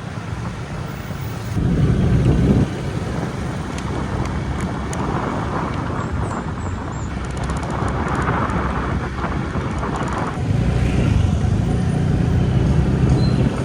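Motorbike running on the road, its engine rumble mixed with rushing wind on the microphone. The low rumble swells louder briefly near the start and again for the last few seconds.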